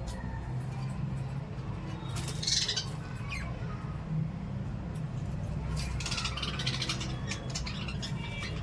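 Small pet parrots squawking: one loud short squawk about two and a half seconds in, then a burst of rapid chattering calls around six to seven seconds, over a steady low hum.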